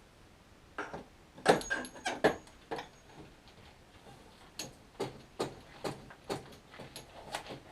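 Hand tools working metal bolts on an outboard motor's housing: a cluster of sharp metallic clicks and clanks, then a run of evenly spaced clicks about two a second, as bolts are tightened.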